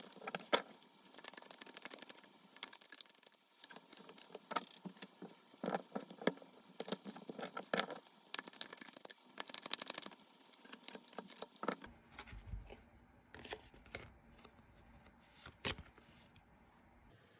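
Tarot cards being shuffled and handled: quick, irregular card rustles and slaps for about twelve seconds, then a few scattered clicks over a low hum.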